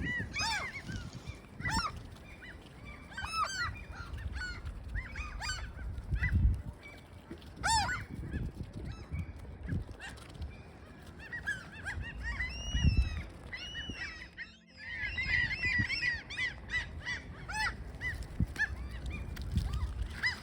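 Crows cawing over and over, several birds calling over one another, with a busier run of calls about three-quarters of the way through. Wind gusts rumble on the microphone now and then.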